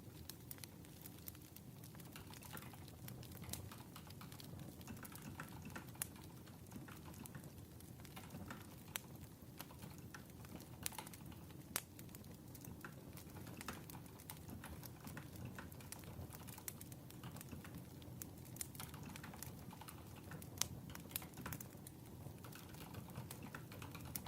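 Quiet crackling wood fire: a low, steady rumble with irregular sharp pops and snaps.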